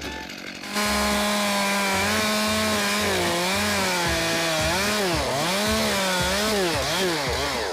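Stihl two-stroke chainsaw coming in suddenly and loud about a second in, running at full throttle with a steady high pitch, then dipping and recovering in pitch over and over as the engine bogs under load in the cut while bucking a log.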